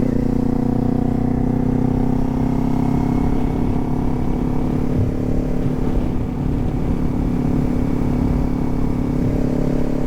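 Kawasaki Z400's parallel-twin engine running steadily at cruising speed, with wind rumble on the microphone. The engine eases off briefly about six seconds in.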